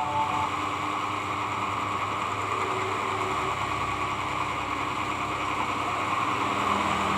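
Electric hair clipper running with a steady buzz, its blade freshly sharpened, as it is tried out on fine thread.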